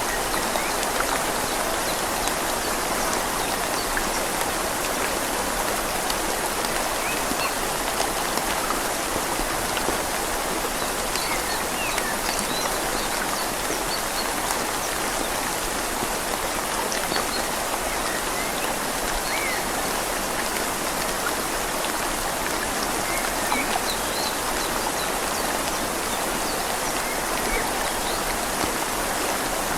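Steady rain falling on leaves over a gently flowing river: an even, unbroken wash of water noise with scattered faint single drop ticks.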